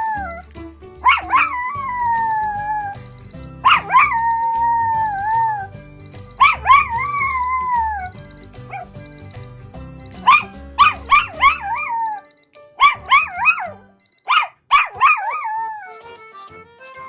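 Toy poodle howling: several drawn-out howls that fall in pitch at the end, then from about ten seconds in a quicker run of short, broken yelping howls. Music plays underneath.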